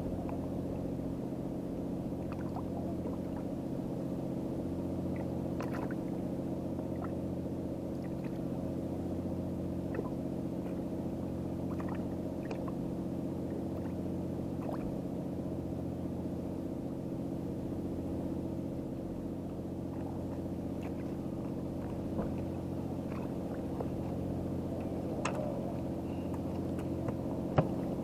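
An engine idling with a steady, unchanging hum, with scattered small clicks over it and one sharp tick near the end.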